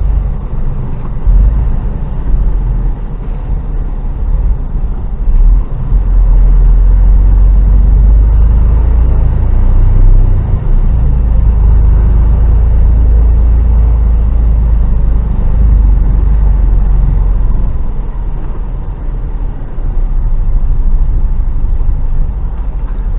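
Heavy goods vehicle's diesel engine running in slow traffic, heard from inside the cab as a steady low rumble.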